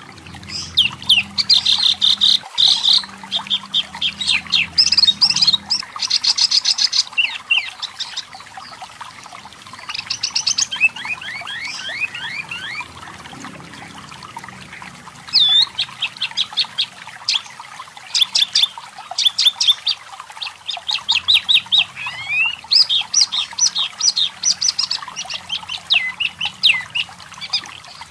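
Wambi mini (tepus lurik, the pin-striped tit-babbler) singing: bursts of rapid, high chirps and fast chattering trills, with a short lull about halfway through.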